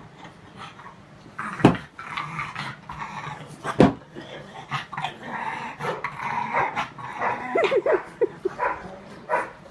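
Dog whimpering and yipping, with short high rising whines near the end and two sharp knocks earlier on.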